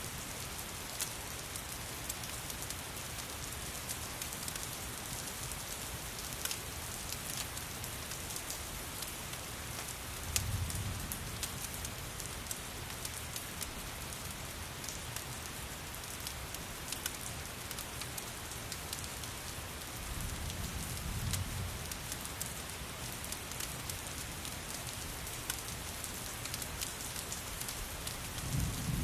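Steady rain mixed with a crackling fireplace: an even hiss of rain with many small scattered pops and crackles. Three soft low rumbles come in, at about ten seconds, around twenty seconds, and again near the end.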